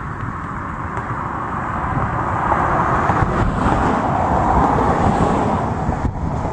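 Wind rumbling on the microphone, with a distant outdoor tornado warning siren swelling up and fading away near the end.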